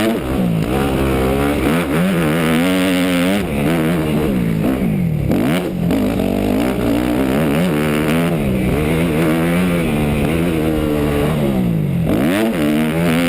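250 cc four-stroke motocross bike engine, heard onboard, revving hard. Its pitch climbs and falls over and over as the rider works the throttle and gears, with two sharp drops where the throttle is shut off.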